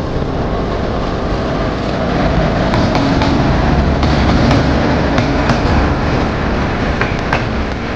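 A train passing on the next track: an electric locomotive and coaches rushing by with a steady, loud roar of wheels on rails and a few sharp clicks.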